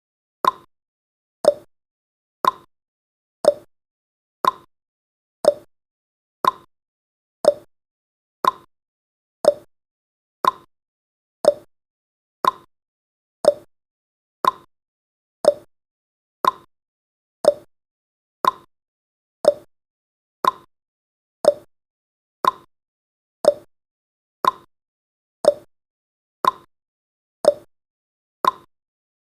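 Countdown timer's tick sound effect: short, sharp ticks, one each second, evenly spaced.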